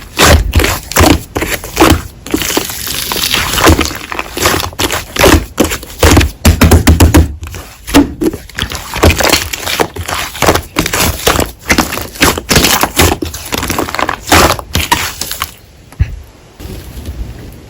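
Slime being squeezed and poked by hand, making rapid, irregular sticky pops, clicks and crackles with soft thuds. The handling goes much quieter a couple of seconds before the end.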